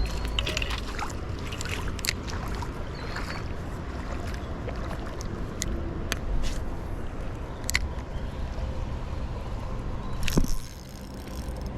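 Shallow creek water running and sloshing, with scattered sharp clicks and knocks. The level drops a little near the end.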